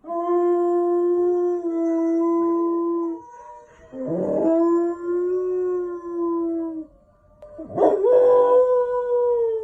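Dog howling: three long, steady howls, the third pitched higher and sagging at its end.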